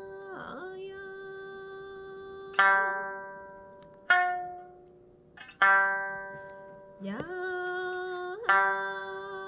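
Sanshin plucked note by note, about five notes that each ring and fade, over a steady held melody note that dips in pitch about half a second in.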